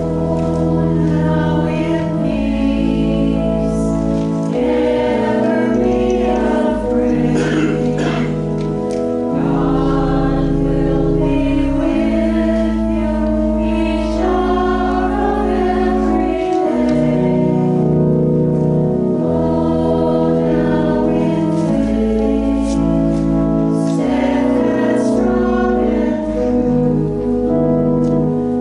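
A group of voices singing a hymn over organ accompaniment, with long held chords and a deep bass line moving in steps.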